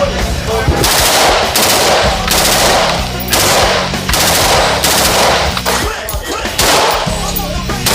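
Fully automatic gunfire: a string of bursts, each about half a second to a second long, with short gaps between them.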